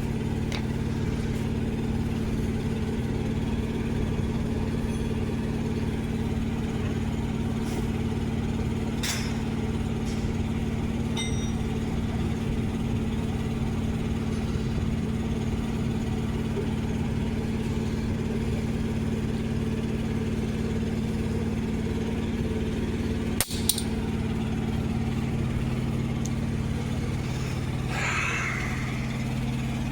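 A truck's diesel engine idling steadily, with a few faint metallic clinks.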